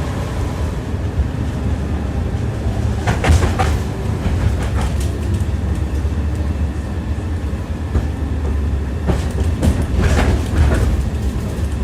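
Tram running along its rails, heard from inside the car: a steady low rumble with clusters of sharp ringing wheel clacks over rail joints, about three seconds in and again around nine to eleven seconds.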